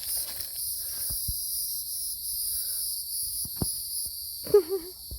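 Insects trilling steadily in a high, pulsing chorus, with scattered crunches and snaps of footsteps in forest undergrowth. About four and a half seconds in there is a short wavering vocal sound.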